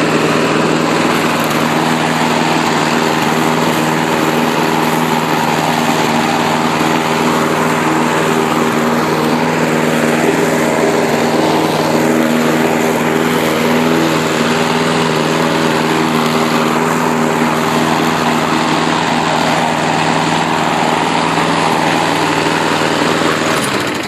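Small gasoline lawn mower engine running steadily at a constant speed without faltering, its tainted, water-contaminated gas treated with an ounce of PRI-G fuel stabilizer.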